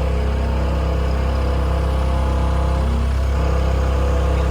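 Steady low mechanical hum of a running motor, holding an even pitch and level.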